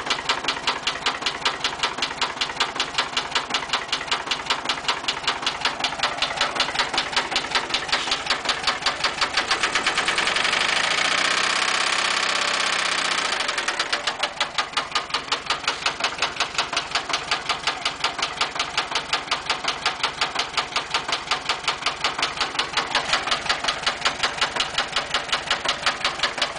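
Volkswagen 40 hp 1200 air-cooled flat-four idling with an even, rapid knocking that the owner takes for a rod knock. It is briefly revved up and back down about ten seconds in, then settles back to the knocking idle.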